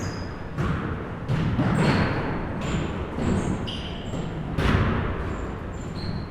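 Basketballs bouncing on a gym floor, irregular thuds ringing out in a large hall, mixed with short high sneaker squeaks.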